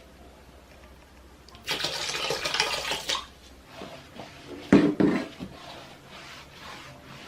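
Water rushing for about a second and a half, then a couple of sharp knocks, like something set down hard, during household cleaning.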